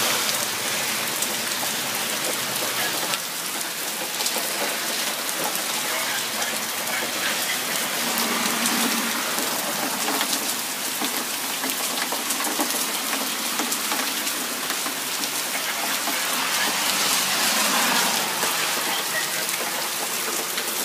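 Heavy downpour: a steady rush of rain with the pattering of countless drops hitting the ground.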